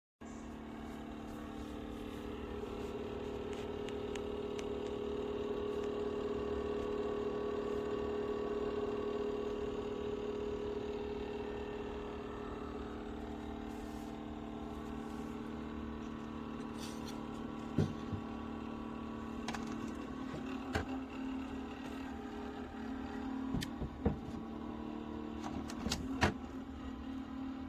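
Steady mechanical hum from a running motor, with a low drone and a few fixed tones, and a handful of sharp clicks in the second half.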